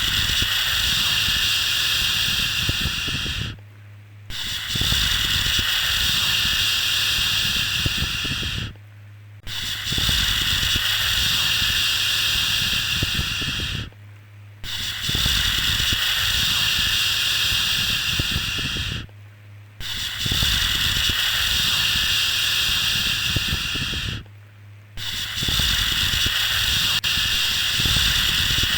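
Long 'shhh' shushing sounds, the kind used to soothe a baby to sleep, repeated about every five seconds. Each one lasts about four seconds, with a short pause before the next.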